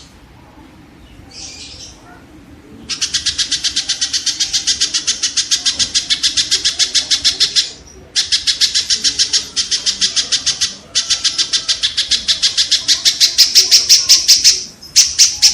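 Kingfisher (tengkek) calling in long bouts of rapid, harsh, evenly repeated notes, about eight a second. Two short breaks split the calling, and a few louder single notes come near the end.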